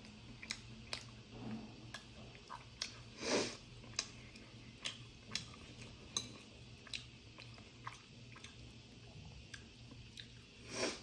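Close-up chewing of Chapagetti black-bean instant noodles, with wet mouth clicks and the tap of metal chopsticks against a ceramic bowl. Two louder rushing sounds stand out, about three seconds in and near the end.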